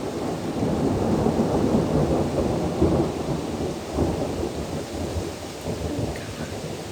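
Rolling thunder rumbling over steady rain, the rumble rising and falling without a break.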